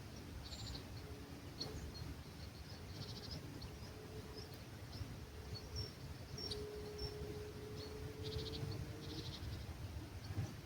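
Small birds chirping faintly in the distance at dawn, with several short buzzy trills, over a low rumble of breeze. In the second half a faint low drone comes in and slowly rises in pitch.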